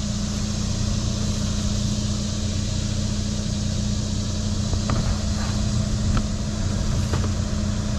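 A vehicle engine idling steadily, a constant low hum, with a few faint light knocks in the second half.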